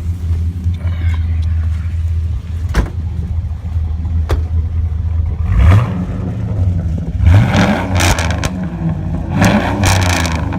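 Chevrolet Silverado's V8 with dual performance exhaust running with a steady low drone, then revved: the pitch rises about halfway through and again a second or two later, with loud rasping exhaust surges near the end.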